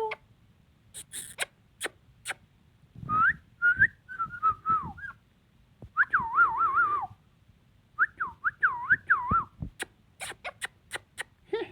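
Ringneck parrot whistling: three bouts of warbling whistles that swoop up and down in pitch, with short sharp clicks before and after them.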